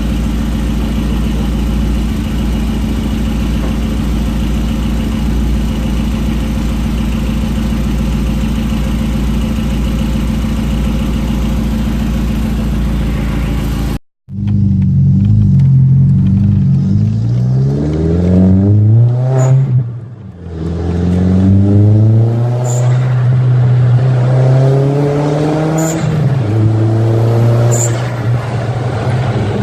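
MK4 Jetta's turbocharged engine running steadily, then, after a sudden cut about 14 seconds in, revved up several times. Each time the revs fall there is a short sharp high sound, the freshly installed HKS SSQ blow-off valve venting.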